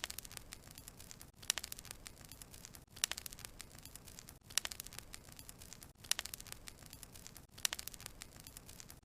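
Wood fire crackling: clusters of sharp pops and snaps over a faint hiss, coming in bursts about every second and a half.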